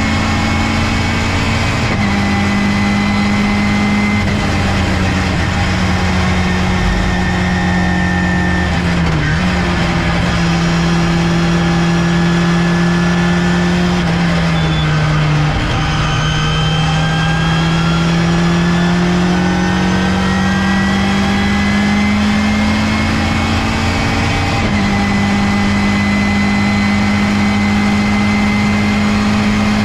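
Ginetta G40 GT5 race car's 1.8-litre Ford four-cylinder engine at speed on track, with a sequential gearbox. The engine note falls a few times in the first half as the car slows, climbs steadily for several seconds, then drops at a gear change about three-quarters of the way through.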